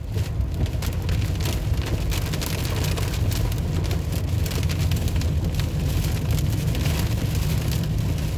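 Heavy rain beating on the car's roof and windshield, heard from inside the cabin as a dense patter of many drops over the low rumble of the car on the road.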